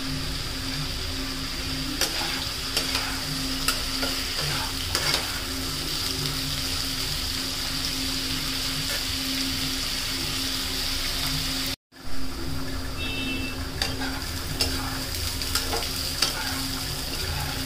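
Potato slices sizzling as they fry in oil in a non-stick kadhai, stirred and turned with a flat steel spatula that clicks and scrapes against the pan now and then.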